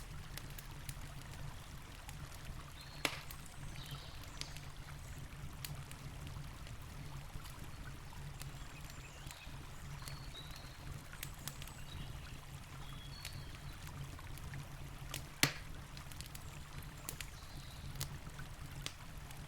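Campfire crackling with scattered sharp pops, two of them louder, about three seconds in and near the end, over the steady low rush of a flowing river.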